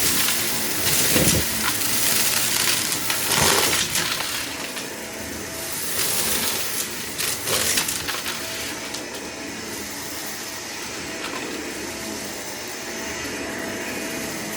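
Vacuum cleaner running steadily while sucking up a test mess of debris, which crackles and rattles as it goes in. The crackling is heavy for the first eight seconds or so, then gives way to the steady run of the vacuum.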